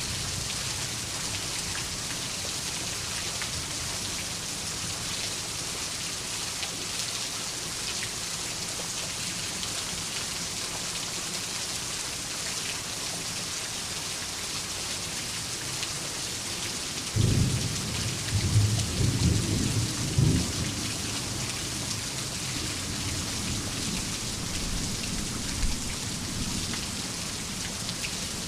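Steady heavy rain hissing. About two-thirds of the way through a sudden clap of thunder breaks in and rumbles low for several seconds before dying back into the rain.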